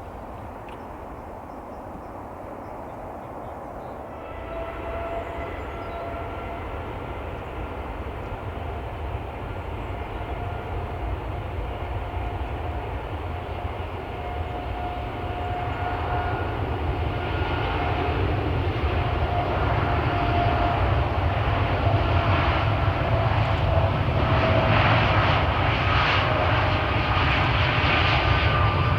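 Jet airliner's engines getting steadily louder as it approaches, a rumble with a high whine that sets in about four seconds in.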